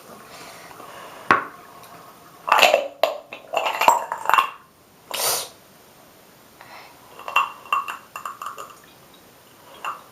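Clinks and knocks of a hard container being handled in a sink, in irregular clusters, with a short hissy burst about five seconds in.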